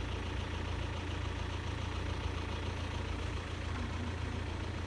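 Steady low rumble of an idling road vehicle engine, even throughout with no change.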